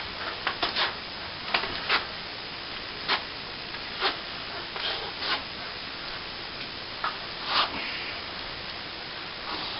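Steel plastering trowel scraping against cornice cement in a dozen or so short, separate strokes at irregular intervals, over a steady hiss.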